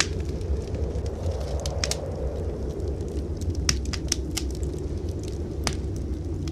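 Wood fire crackling in a fireplace: scattered sharp pops and snaps, several close together about four seconds in, over a steady low rumble.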